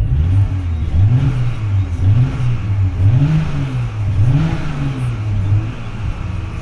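Porsche Macan S twin-turbo V6 engine revved from idle several times in a row, its pitch rising and falling with each blip of the throttle. The mechanic suspects a connecting-rod knock in it.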